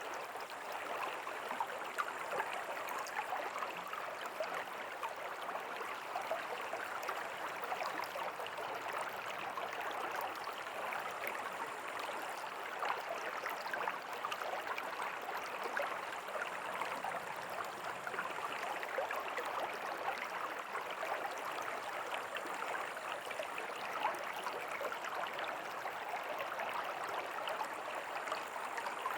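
River water running steadily over stones, a constant rushing with fine splashing and gurgling.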